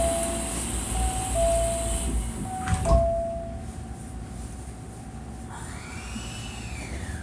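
Door-closing chime inside a Hankyu 1300 series train, a two-note high–low chime repeated three times, then the sliding doors thud shut about three seconds in. Near the end a brief whine rises and falls in pitch.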